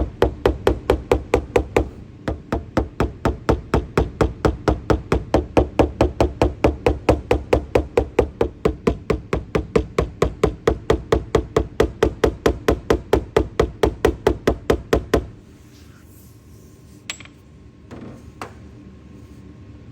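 Rapid, even hammer taps on a car roof's sheet metal, about four a second: paintless dent repair tapping-down around a hail dent during glue pulling. The tapping stops suddenly about three-quarters of the way in, followed by two faint clicks.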